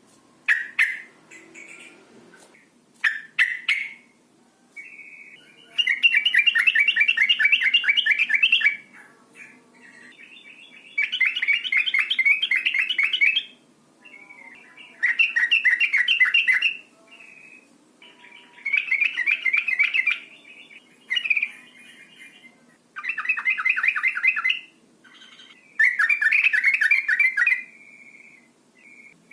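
Female yellow-vented bulbul (trucukan) chattering: about seven bouts of rapid, rattling notes, each two to three seconds long, with a few short single calls near the start. This is the female's excited call, used by keepers to rouse males into singing.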